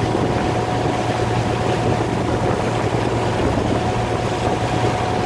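Fishing boat's engine running steadily, heard from on board as a constant low drone mixed with rushing noise.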